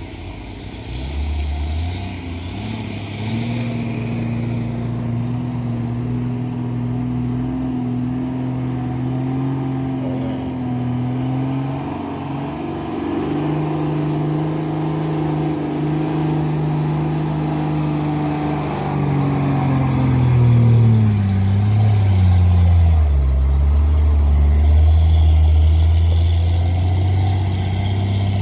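Heavy diesel truck engine working hard on a steep climb. Its revs step up twice and hold, then fall about two-thirds of the way through to a lower, steady, slightly louder drone.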